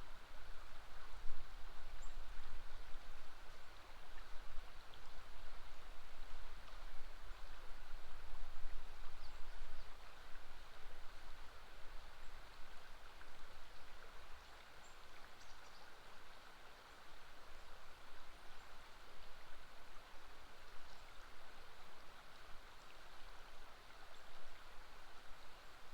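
River water flowing in a steady, even rush, with an uneven low rumble underneath.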